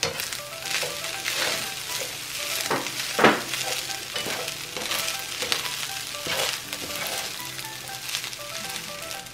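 Fried rice with egg sizzling in a nonstick skillet while a plastic spoon stirs and scrapes through it in repeated strokes, the loudest scrape about three seconds in.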